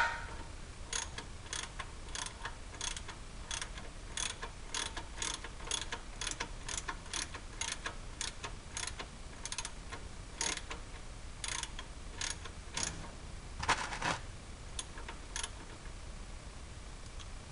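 Hand ratchet clicking in quick back-swings, about two to three sharp clicks a second with a few short pauses, as a 17 mm socket unscrews an oil-pan drain plug. A louder rattle comes about 14 seconds in.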